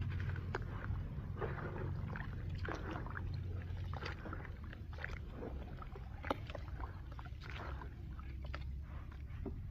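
Dry, gritty cement crumbling and crunching, made up of irregular small crackles and grainy crunches over a low steady rumble, with one sharper snap about six seconds in.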